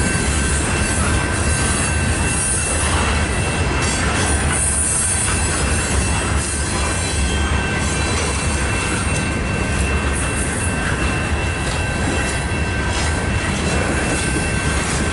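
Lumber-loaded flatcars of a freight train rolling past: a steady rumble of steel wheels on rail, with a thin, high-pitched wheel squeal ringing over it.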